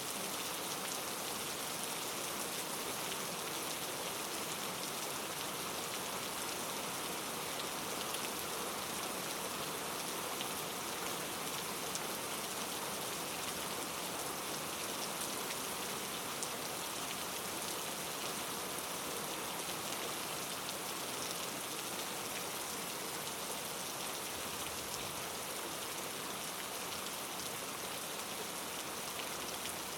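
Steady rain falling, an even hiss of many drops with faint scattered pattering, no thunder.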